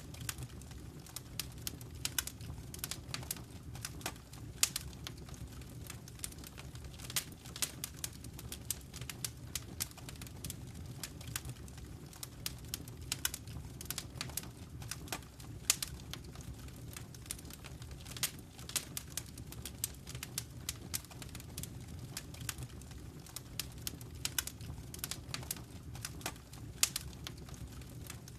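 Fireplace fire crackling: irregular sharp pops and snaps several times a second over a low, steady rumble.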